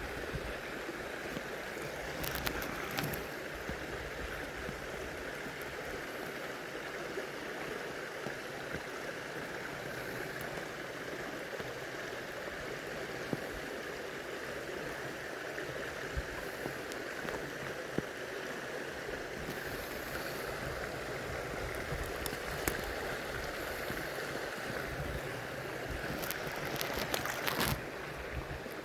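Stream water flowing steadily over rocks, with a few brief clicks and knocks about two seconds in and again near the end.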